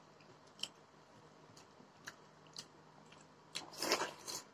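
Eating sounds close to the microphone as rice and side dishes are eaten by hand: scattered soft clicks and mouth smacks of chewing, then a louder cluster of chewing and lip smacks about three and a half seconds in.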